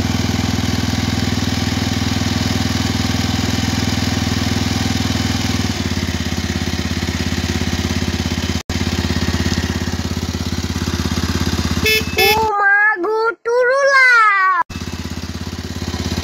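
Motorcycle engine running steadily under way, heard from the rider's seat, easing slightly about six seconds in. Near the end the engine sound cuts out for a couple of seconds under a short edited-in clip of a high, wavering voice, then returns.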